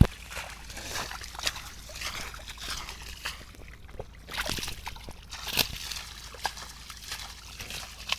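Shallow water sloshing and trickling, with irregular small splashes; the sharpest splash comes about five and a half seconds in.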